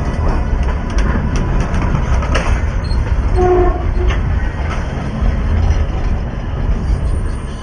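A train rolling past right at the phone, heard as a loud, continuous low rumble with irregular clicks and knocks from the wheels on the rails. A brief steady tone sounds about halfway through.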